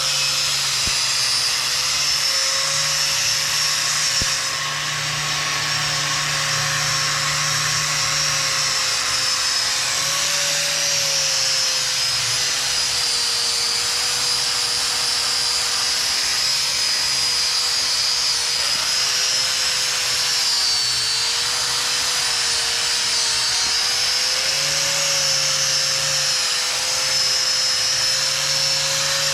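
Handheld power tool motor running continuously with a high hiss, its pitch dipping and recovering slightly as it is loaded against the work.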